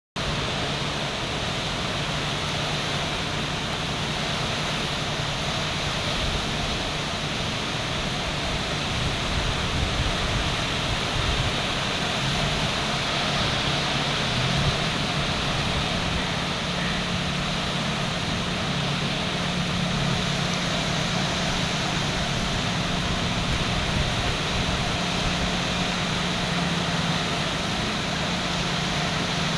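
A boat engine running steadily under a constant wash of wind and water noise, its low hum shifting slightly in pitch about halfway through.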